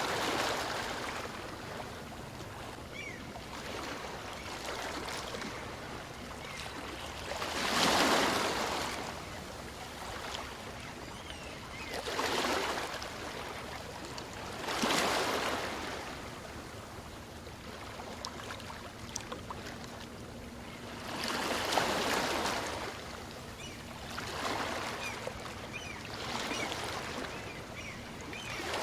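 Gentle waves of a calm sea breaking on a beach and washing up the shore: surges of surf swell and fade every few seconds over a steady wash, the loudest about eight seconds in.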